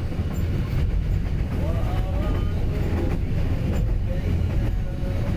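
Train running on the rails: a steady low rumble of wheels and carriages.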